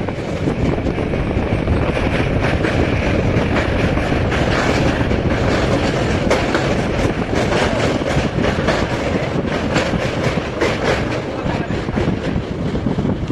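Passenger train running at speed: a steady rumble of wheels on the rails with many sharp clicks and rattles of the coaches.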